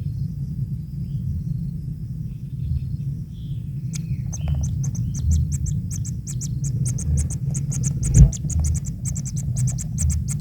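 Rapid, high-pitched chirping that starts about four seconds in and repeats several times a second, over a steady low rumble, with one brief thump near the end.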